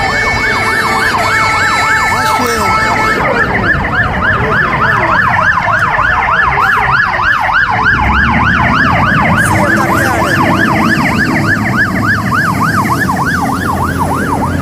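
Fire engine siren in a fast yelp, its pitch sweeping up and down about four times a second. A steady horn-like tone sounds over it for the first three seconds, and a low engine rumble joins about halfway through.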